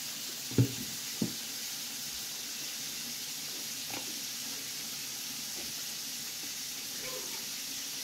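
Steady sizzling hiss of food frying in a pan, with two knocks about half a second and a second in as things are set down on the table.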